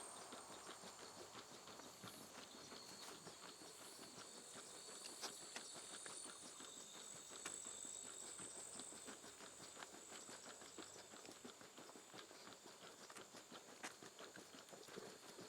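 Quiet, quick footsteps along a footpath: a steady run of light clicks. Faint, steady high-pitched insect trilling sounds behind them.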